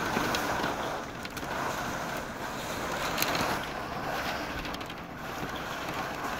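Gusty thunderstorm wind rushing and buffeting the microphone, rising and falling, with a faint click about three seconds in.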